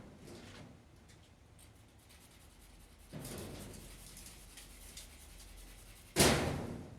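Rubbing or scraping strokes on a surface, a few seconds apart. The last one, near the end, starts suddenly and is much louder than the others.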